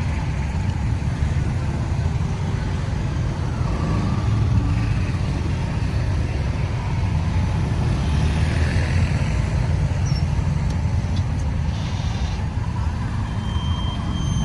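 Steady road traffic noise: vehicle engines and tyres running on the road. A brief high-pitched tone comes in near the end.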